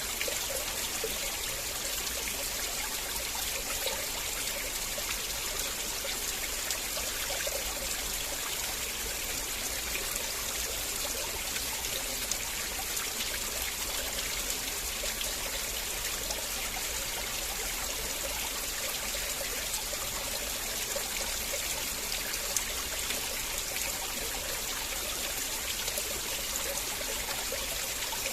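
River water flowing and trickling steadily, an even rushing hiss with no breaks.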